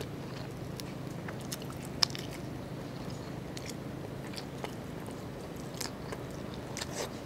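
Close-up mouth sounds of someone biting and chewing crispy roast pork (lechon) skin with rice, with scattered crisp crackles and one sharp, louder crunch about two seconds in. A steady low hum runs underneath.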